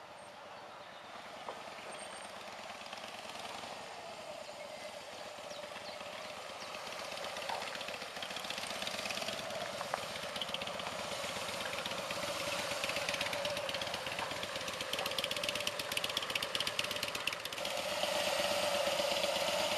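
Cruiser motorcycle engine running, growing steadily louder, with a further step up in level near the end.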